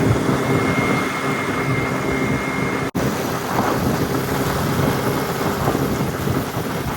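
Wind buffeting the microphone of a moving Piaggio Zip 50cc scooter, over the scooter engine's steady drone. There is a brief break about three seconds in.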